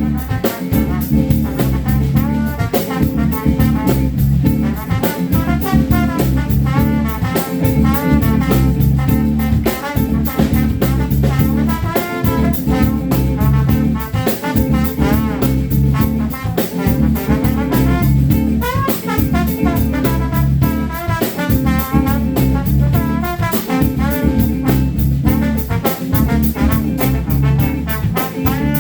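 Live drums and brass horns playing an upbeat tune together over a fast, steady beat.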